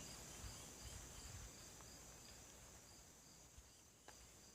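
Near silence, with faint steady high-pitched insect chirring in the background and a faint click about four seconds in.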